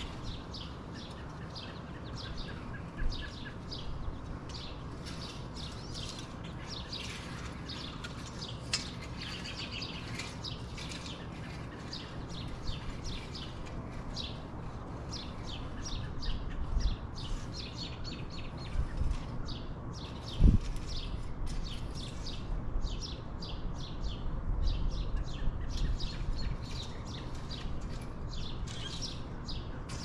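Songbirds chirping and singing steadily, with low rumbles in the second half and a single sharp thump about two-thirds of the way through.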